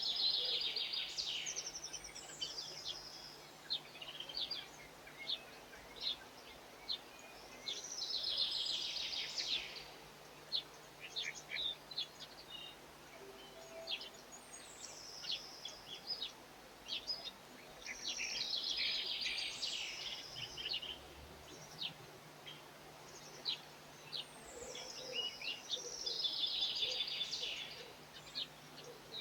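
Garden songbirds: a bird sings the same short phrase, a high note running into a rapid trill, about every eight seconds, while other birds call with short, separate chirps in between.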